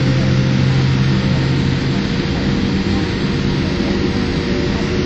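Boeing 787 Dreamliner's jet engines and airframe heard from inside the passenger cabin: a loud, steady rushing noise with a low hum underneath that fades out about two seconds in.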